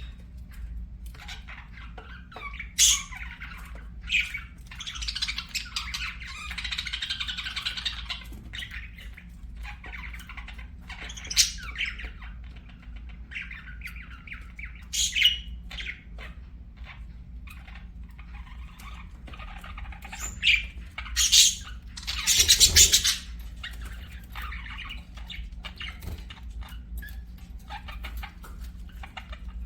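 Budgerigars chattering and warbling, with sharp, loud chirps and squawks breaking in every few seconds. The loudest is a longer harsh squawk about three-quarters of the way through.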